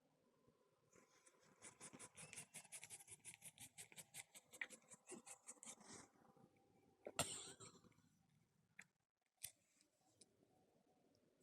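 A pet licking and grooming his rear end with rapid, faint slurping licks, several a second, for about five seconds. A louder sudden sound follows about seven seconds in.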